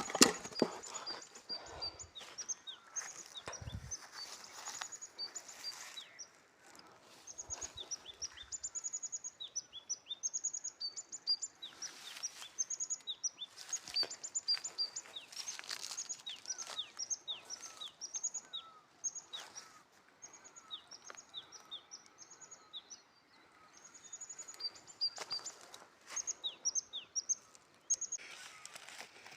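Small birds chirping, a quick, continuous run of short high notes, many of them sliding downward. Right at the start there is a sharp knock, the loudest sound, followed by a few soft thumps and rustling over the first several seconds.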